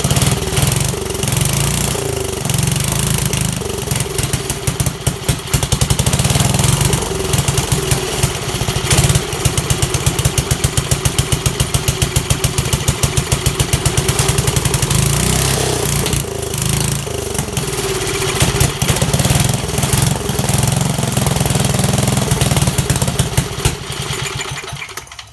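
1969 Bonanza mini bike's small single-cylinder engine running unevenly on a freshly rebuilt, not yet tuned carburetor, its speed rising and falling and slowing to separate chugs for a while. It cuts out just before the end.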